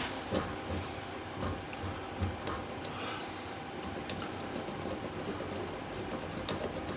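Quiet workshop handling noises: light rubbing and a few small clicks over a faint steady hum.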